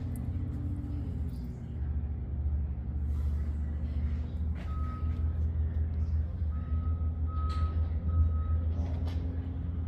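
Ford 429 Super Cobra Jet big-block V8 running with a steady deep rumble that grows a little stronger about two seconds in.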